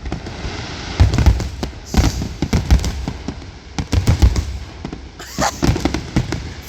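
Fireworks grand finale: a rapid barrage of aerial shells bursting, many overlapping booms and cracks. The heaviest booms come about one, two and four seconds in.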